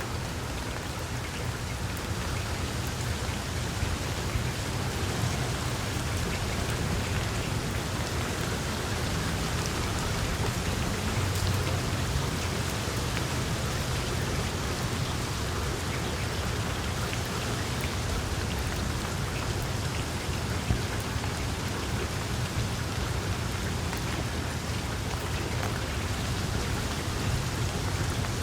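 Wood fire burning in a fireplace: a steady crackle and hiss with many small pops and a low rumble of flame, one sharper pop about three quarters of the way through.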